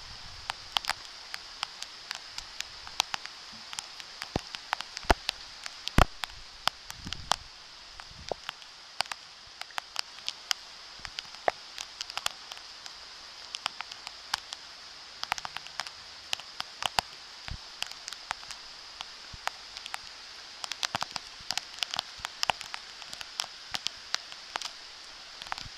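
Summer rain falling on wet paving and a shallow puddle: a steady hiss with many irregular sharp taps of single drops, a few of them much louder.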